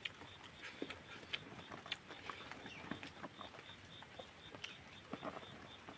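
Close-up eating sounds of a person chewing rice and pork: irregular wet mouth clicks and lip smacks.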